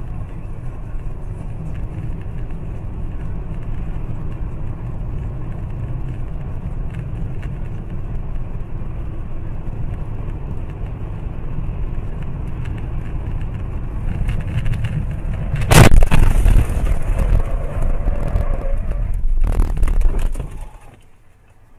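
Steady road and engine noise of a moving vehicle, then about 16 s in a sudden, very loud crash impact of a car and truck accident, followed by a few seconds of crunching and scraping with a second heavy hit, before the noise dies away.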